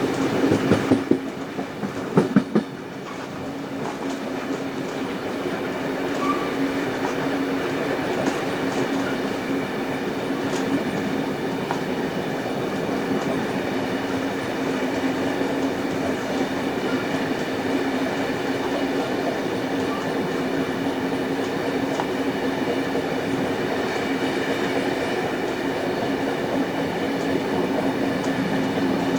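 Heritage passenger train hauled by steam locomotive 3801 running along the track. A few louder clattering knocks come in the first couple of seconds, then a steady rolling rumble with a constant hum and occasional wheel clicks.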